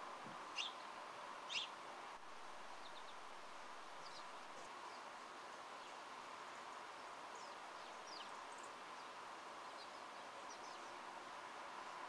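Small birds chirping in short, high calls over a faint steady outdoor hiss. Two louder chirps come about half a second and a second and a half in, and fainter scattered chirps follow through the rest.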